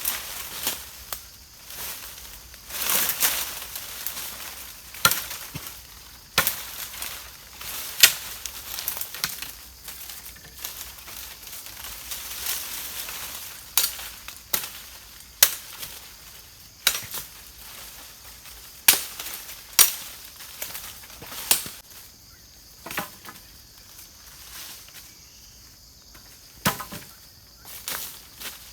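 Repeated sharp chopping strikes, irregular at first and then about one every second or two, with lighter rustling and scraping between them.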